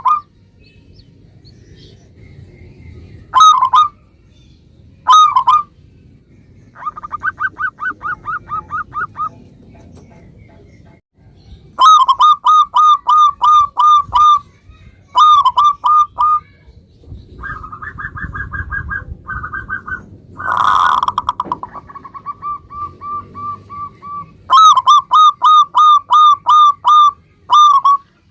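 Zebra dove (perkutut) song: rapid strings of short, clipped cooing notes in phrases of one to three seconds, with pauses between. About twenty seconds in there is a brief louder, rougher sound.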